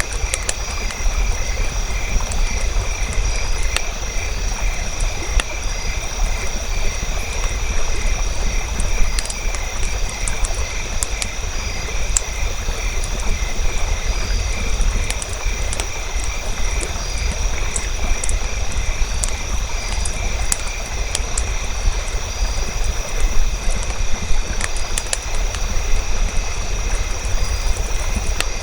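Campfire crackling, with scattered sharp pops over a low steady rumble, set against a steady, pulsing chorus of frogs.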